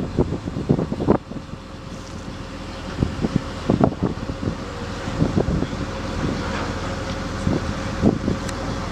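Wind buffeting the microphone in repeated gusts over a steady rushing noise, with a faint steady hum coming in about halfway through.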